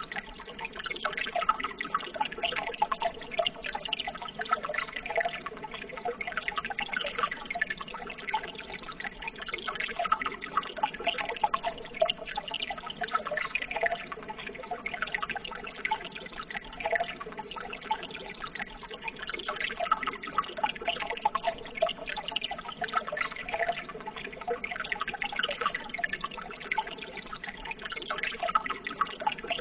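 Running water babbling steadily, a dense stream of small splashes and gurgles.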